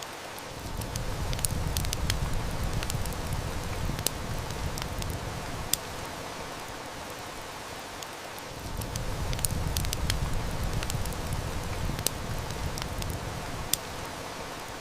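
Heavy rain hissing steadily, with the sharp crackles and snaps of a wood fire scattered through it. Two long, low rumbles of distant thunder swell in, about a second in and again around eight seconds in.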